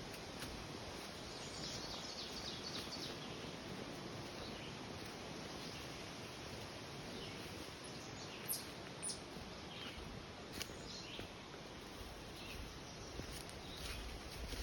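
Woodland ambience: scattered short, high bird chirps and calls over a steady hiss of breeze in the trees.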